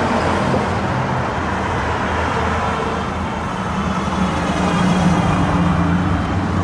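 Hot rod engine running as the car drives past on the highway, with road traffic noise; the engine's low steady drone grows louder as it passes about five seconds in.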